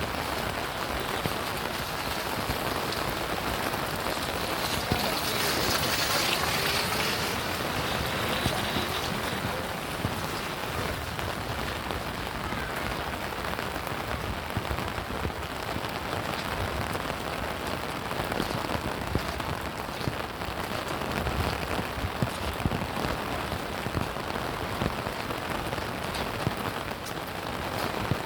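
Steady rain falling, a dense even hiss dotted with small drop taps. It swells louder for a few seconds about five seconds in, then settles back.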